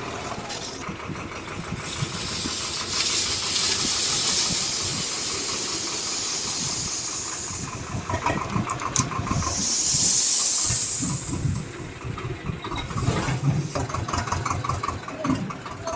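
Swaraj 724 XM tractor's diesel engine running under load, its pitch and loudness rising and falling as it strains, with two long stretches of loud hissing.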